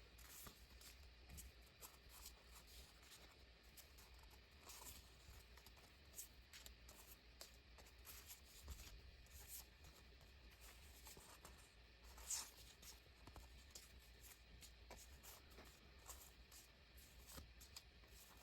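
Faint rustling of paper sticker sheets being handled and set down, in scattered light strokes with one louder rustle about two-thirds of the way through, over a low steady hum.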